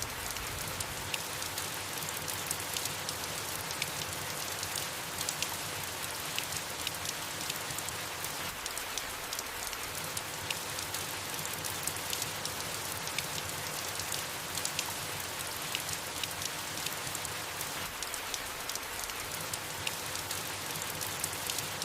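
Steady soft rain falling on leaves, an even hiss of rainfall dotted with many small individual drop ticks.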